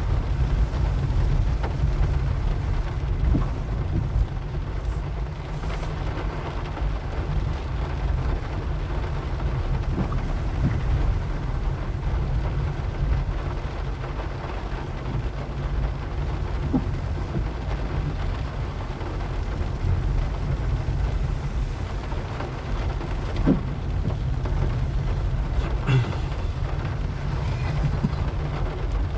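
Car driving in the rain: a steady low rumble of engine and tyres under an even hiss of rain, with a few light knocks.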